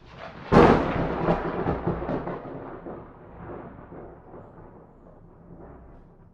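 Thunderclap: a sudden sharp crack about half a second in, then a rolling rumble that slowly fades away over several seconds.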